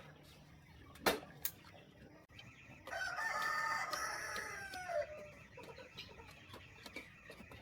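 A rooster crows once, a call of about two seconds that falls in pitch at its end. Two sharp clicks come shortly before it.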